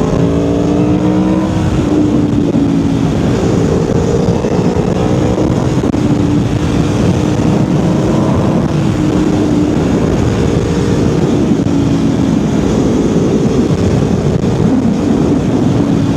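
Aprilia Tuono V4R's V4 engine pulling the bike along on the road. Its exhaust note rises and falls several times with the throttle.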